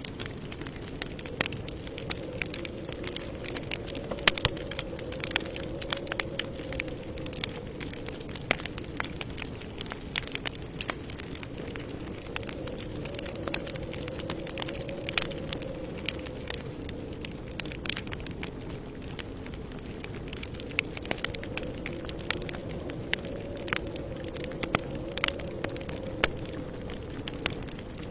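Campfire crackling: frequent, irregular sharp pops and snaps of burning wood over a steady low rush of flames.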